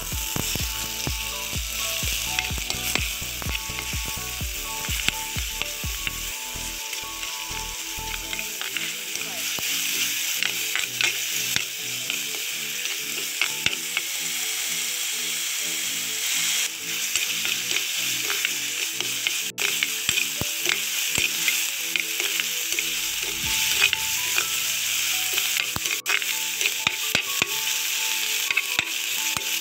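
Sliced shallots, green chillies and chopped tomato sizzling in hot coconut oil in a clay pot. A ladle scrapes and stirs them, making frequent short clicks over the steady sizzle.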